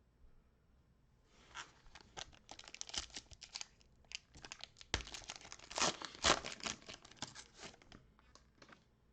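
A trading-card pack's foil wrapper being torn open and crinkled, a dense run of crackling tears that is loudest about two-thirds of the way through.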